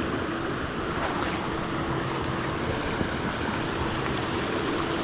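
Mountain creek water rushing steadily into a pool, an even wash of noise with a faint steady tone under it.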